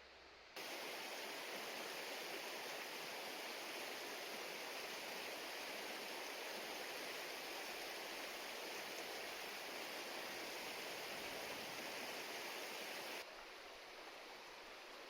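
Steady rushing of a mountain river's flowing water. It cuts in abruptly about half a second in and drops suddenly to a quieter hiss near the end.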